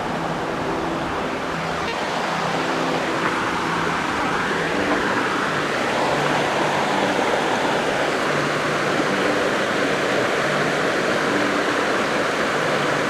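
Waterfall rushing, a steady loud hiss of falling water that swells slightly in the first few seconds. Faint background music notes sit underneath.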